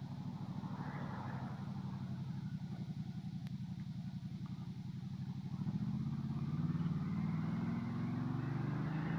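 Ducati Multistrada 1200's L-twin engine running on the move: steady at first, then pulling harder from about halfway, its pitch rising and the sound getting louder.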